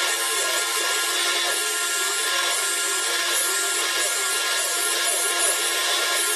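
A metalworking machine tool running under cut, a steady grinding, rubbing noise without a break.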